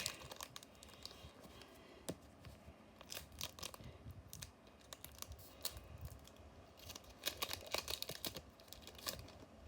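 Foil booster pack wrapper being torn open and crinkled by hand, with the cards pulled out: faint scattered rustles and crackles, in a cluster about three seconds in and again near the end.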